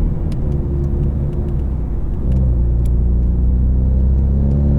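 The 2020 Ford Mustang's turbocharged 2.3-litre EcoBoost four-cylinder pulls under acceleration through its active-valve performance exhaust. The engine note gets louder and deeper about two seconds in.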